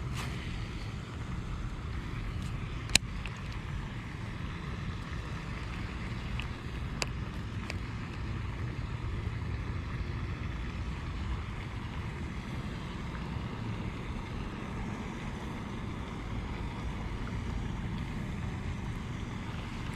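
Steady low rumble of wind on a chest-mounted action camera's microphone, with one sharp click about three seconds in and a few fainter ticks around seven seconds.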